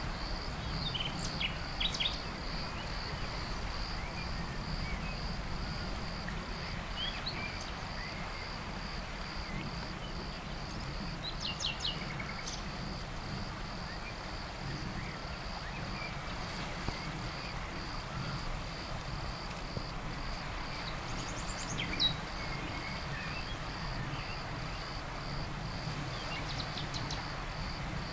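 Outdoor nature ambience: an insect's evenly pulsing high trill runs on over a steady low hiss, while birds give short chirps now and then, most clearly about 2 s, 12 s and 22 s in.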